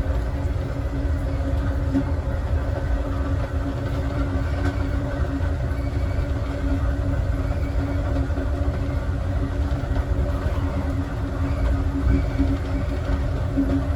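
Amtrak Southwest Chief passenger train running on the rails: a steady rumble with a constant low hum.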